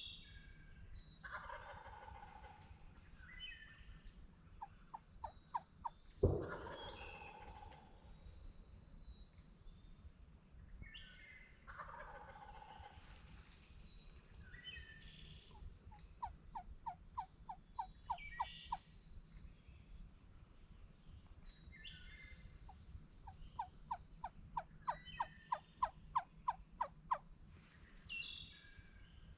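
Wild turkeys gobbling several times, the loudest gobble about six seconds in. Between gobbles come runs of quick turkey yelps, about four a second, along with songbirds chirping.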